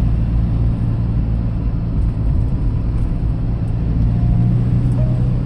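Engine and road noise inside a moving vehicle's cabin: a steady low rumble with a constant engine hum.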